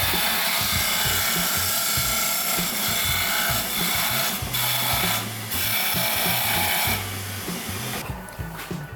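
Power tool cutting into a pine 2x6 board: a steady high hiss that breaks off briefly twice and stops about seven seconds in, over background music.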